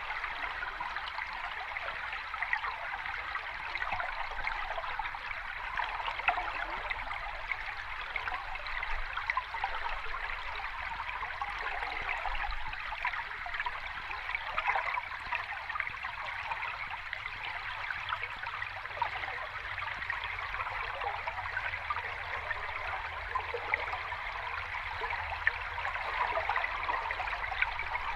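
Sea water washing at the shore as a steady, continuous fizzing and trickling, with no distinct breaking waves or swells.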